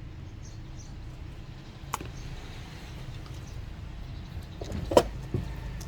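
A few sharp clicks or taps over a steady low hum; the loudest click comes about five seconds in.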